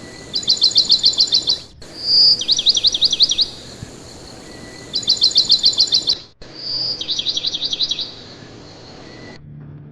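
Songbird singing in four loud bursts of rapid repeated high notes, about ten notes a second and each burst a second or so long. The second and fourth bursts open with a single clear whistled note.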